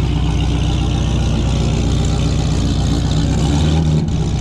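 Car engine running steadily at low revs, its pitch rising briefly about three and a half seconds in, then a sudden break.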